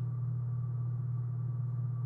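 A steady low-pitched hum, unchanging in pitch and level, with a faint higher tone above it.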